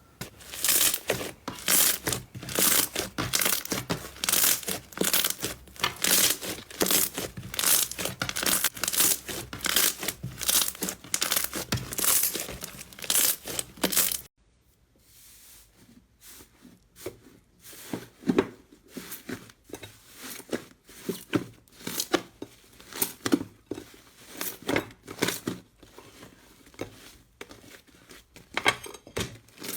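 Slime being squeezed and stretched by hand, with dense crackling and popping. About halfway through it cuts to a different slime with sparser, softer pops.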